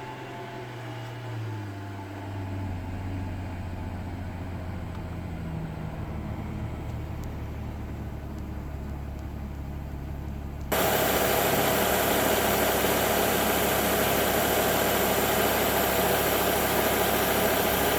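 Mercedes-Benz S600's twin-turbo V12 idling steadily. About eleven seconds in, a loud, steady rushing noise comes in suddenly and covers it.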